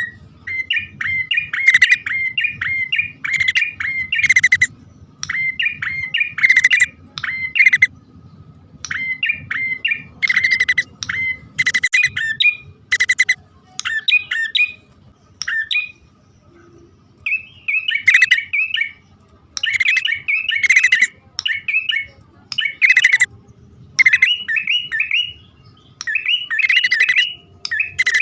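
Prenjak (prinia) male and female calling, as played to lure birds: rapid, sharp chirps in phrases of about a second, repeated after short breaks.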